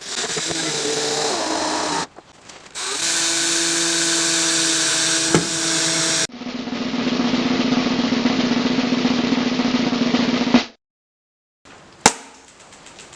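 Electric power tools running in a series of short cuts, each a steady motor buzz with a whine on top; the sound stops dead for about a second near the end, followed by a sharp click.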